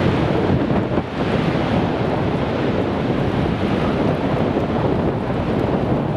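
Strong blizzard wind buffeting the microphone as a loud, steady rushing roar, with a brief lull about a second in.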